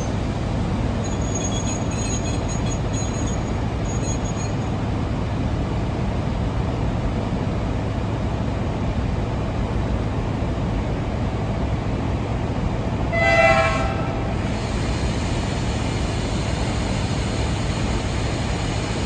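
ET41 electric locomotive standing with a steady low running rumble, then giving one short horn blast about two-thirds of the way through.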